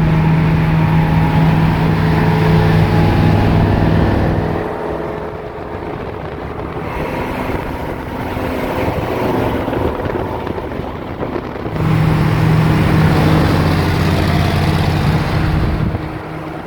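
Ford 5.0L V8 (a 1989 Fox body engine) droning steadily under way with road and wind noise; the engine tone drops back about four and a half seconds in, as if easing off the throttle, and comes back strongly about twelve seconds in.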